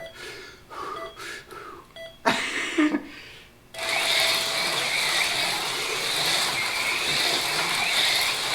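A race-start countdown of short beeps ends in a longer tone just under four seconds in. At that moment the electric motors and tyres of AFX Mega G+ HO slot cars start a steady, high whine and hiss as the cars run on the track. A loud brief sound comes a couple of seconds before the start.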